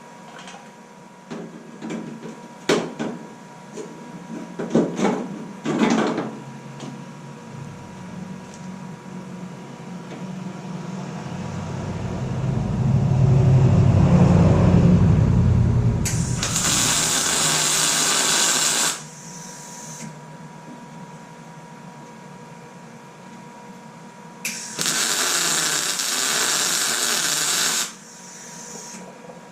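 MIG welder laying two short welds, each about three seconds of steady crackling hiss, filling small holes in sheet-metal body panel. Before them come a few scattered clicks and a low rumble that swells and fades.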